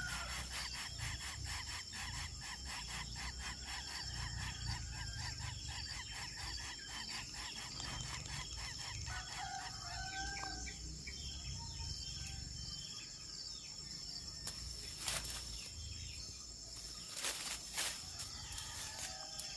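Outdoor nature ambience: a steady high insect drone, pulsing rapidly through the first half. A few short bird calls come about halfway through and again near the end, and a few sharp clicks come late on.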